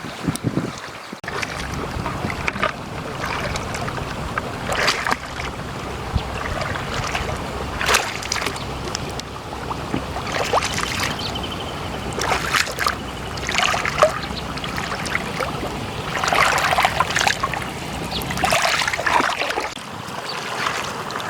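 Water splashing and sloshing in irregular bursts over a steady rush of wind on the microphone.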